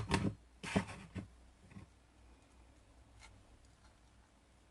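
Handling sounds of hot-gluing netting: a few short clicks and rustles in the first second or so, then only a faint low hum.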